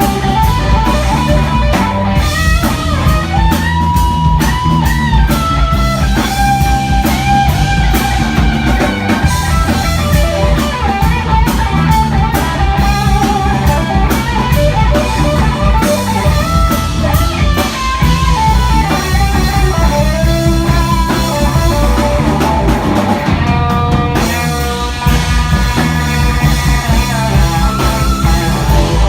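Rock band playing an instrumental passage: a lead guitar melody with bent, gliding notes over bass and a drum kit.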